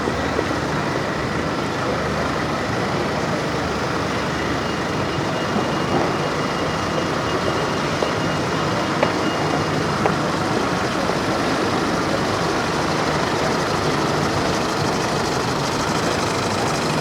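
Busy city-street ambience: steady traffic noise of motor vehicles running, with a few small clicks.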